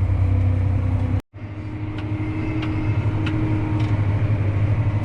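Tractor engine running steadily, with a brief complete break just after a second in and a few faint clicks afterwards.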